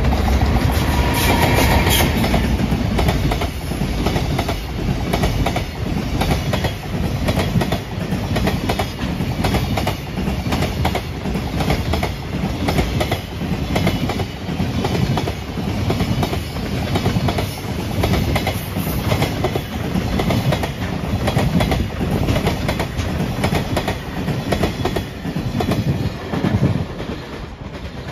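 JR freight train hauled by an EF210 electric locomotive passing close by, a long string of container flatcars rolling past with a steady clickety-clack of wheels over the rail joints.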